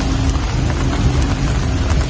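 Steady rain falling: an even hiss over a strong low rumble, with a few separate drops ticking through it.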